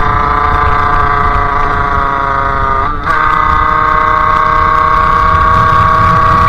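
Sherco 50cc two-stroke engine with a KRM expansion exhaust, running under way with a steady high note. The pitch sags a little, dips sharply for a moment about three seconds in, then holds steady and climbs slowly.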